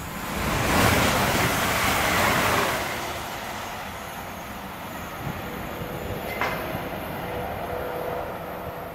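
Passenger train passing on the main line and running away: a loud rush of wheels on rails for the first few seconds, easing into a steadier rumble with a faint thin whine as it recedes.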